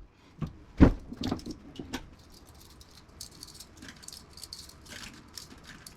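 Knocks and rattling of scrap parts being handled. A sharp knock comes about a second in, with a few lighter ones around it, followed by faint scattered clicking and rattling.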